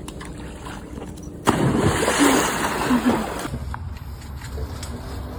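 A sudden loud splash into water about a second and a half in, followed by about two seconds of splashing that then dies away.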